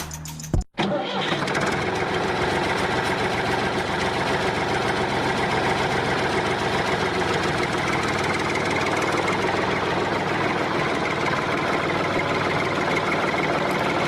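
A steady engine-like running sound that starts abruptly about a second in, after a short break in the music, and keeps going evenly.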